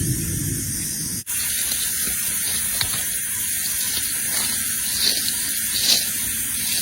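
Steady rushing water noise, with a few faint, short high bird calls, about three, in the second half. It drops out for an instant just over a second in.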